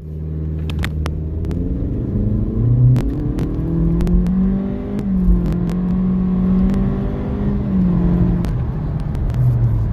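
2023 Acura Integra's 1.5-litre turbocharged four-cylinder at full throttle from a standstill in a 0–60 mph run, heard from inside the cabin. The engine note climbs and holds high, with brief dips in pitch about five and eight seconds in, over road noise and scattered sharp clicks.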